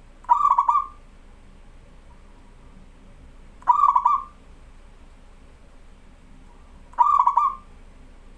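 Zebra dove (perkutut) cooing: three short coos about three and a half seconds apart, each a quick run of notes lasting about half a second.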